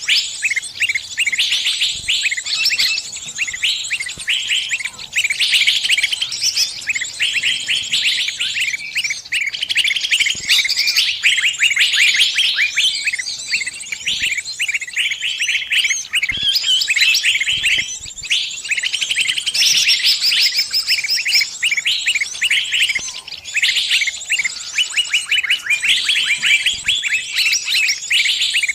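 Small songbird's distress calls, as given by a trapped bird calling others for help: rapid high chirps and trills, nearly continuous with only brief pauses.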